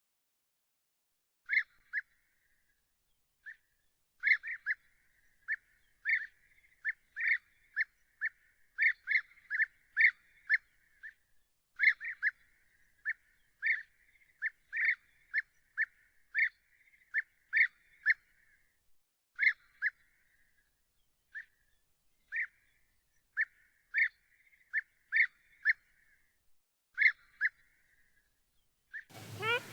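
A single bird calling over and over in short, sharp, high notes, mostly in quick pairs, about one call group a second, each with a short echo. A different, noisier sound with other bird calls cuts in near the end.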